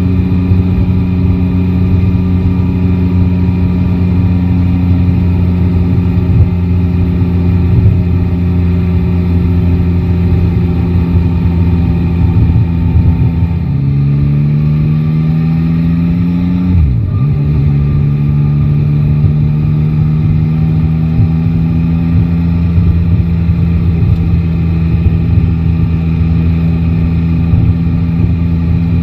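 Yamaha Tracer 9 GT's three-cylinder engine running at a steady cruise, its pitch easing off slowly. About halfway through the engine pitch drops, climbs under acceleration, drops again at a second gear change and then settles back to a steady note. Low wind rumble on the microphone runs underneath.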